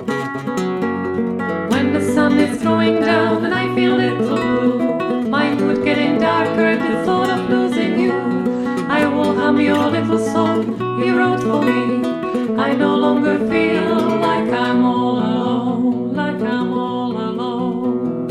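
Upbeat folk song on strummed acoustic guitar with singing. The voice comes in about two seconds in and drops out near the end, leaving the guitar on its own.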